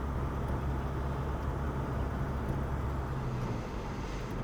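A 1951 Chevrolet on the move, heard from inside the cabin: its 292 inline-six engine runs at a steady low hum over road noise. The engine note drops away a little near the end.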